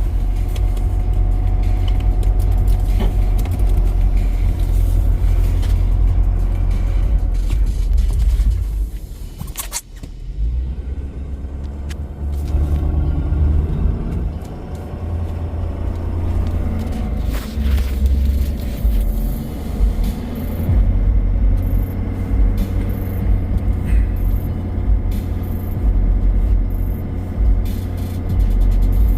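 Pickup truck rumbling along as it drives through deep snow, with a brief dip in the noise about ten seconds in.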